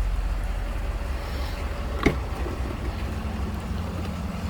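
A 2012 Ford F-450's 6.7-litre Power Stroke V8 diesel idling with a steady low hum, with a single sharp click about two seconds in.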